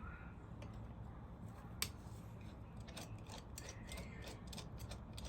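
Small metal clicks from a hand tool working a gasketed screw loose on a Merrow overlocker sewing machine: one sharp click about two seconds in, then a run of quick clicks.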